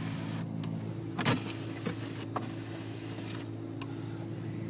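1992 Buick LeSabre's 3.8-litre Series I V6 idling steadily shortly after a cold start, heard from inside the cabin with the heater fan running. A few light clicks come through, the loudest a little over a second in.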